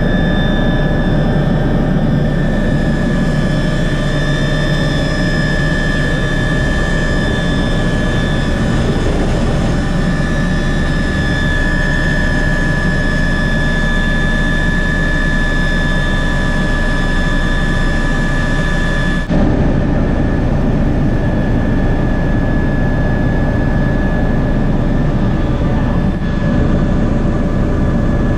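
MBB Bo 105 helicopter in flight: the steady high whine of its twin turboshaft engines over loud rotor and transmission noise, with a sudden shift in the sound about 19 seconds in and again near the end.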